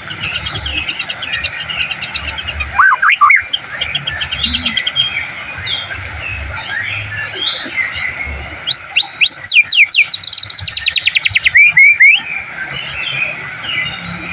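White-rumped shama (murai batu) in full song: a continuous stream of whistles and trills, with loud rapid-fire phrases about 3 seconds in and again from about 9 to 12 seconds, where a fast series of sharp sweeping notes runs together.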